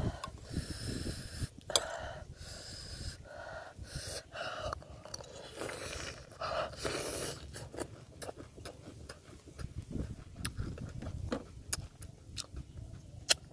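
A man sucking a raw oyster with greens off its shell and chewing it: wet, clicking mouth sounds throughout.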